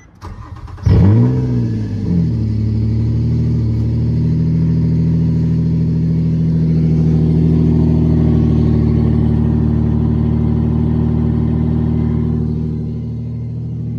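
2013 Nissan Maxima's V6 cold-starting after five days parked: a brief crank, then it catches about a second in, flares up and settles into a steady fast idle that eases down a little near the end. It starts cleanly, which the owner calls immaculate.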